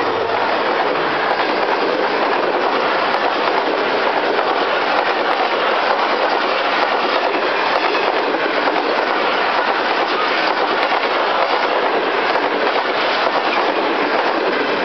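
Loud, steady rushing noise of a moving vehicle, with faint ticks now and then.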